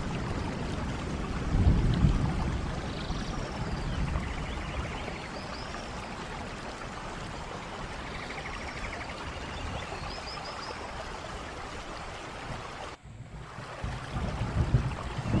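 Steady rain falling, with low rumbles about two seconds in and again near the end. The sound dips out briefly near the end before the rain picks up again.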